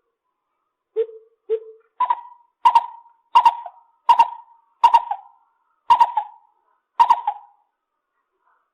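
Lesser coucal calling: two low hoots, then a series of seven sharper, higher notes evenly spaced about two-thirds of a second apart, stopping about seven and a half seconds in.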